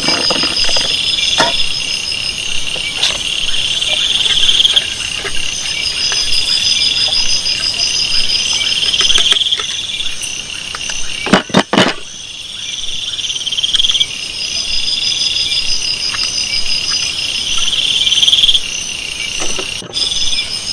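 Night insects in tropical forest: crickets trilling steadily, with a louder insect call that swells and fades every two to three seconds. A few sharp knocks come a little past the middle.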